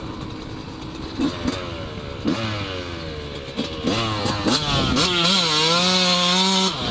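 Yamaha YZ125 two-stroke dirt bike engine under full throttle for a holeshot, accelerating hard through the gears: the pitch climbs and drops back at each upshift several times, then holds at high revs before the throttle is shut off suddenly near the end.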